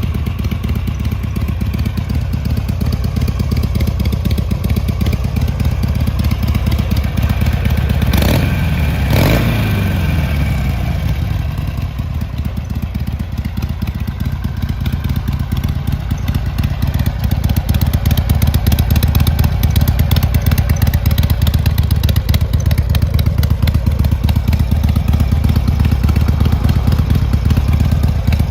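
Harley-Davidson Sportster XLH 883's air-cooled V-twin engine idling with its uneven, pulsing beat. Its revs rise briefly and fall back about eight to nine seconds in, and it grows louder from about seventeen seconds in.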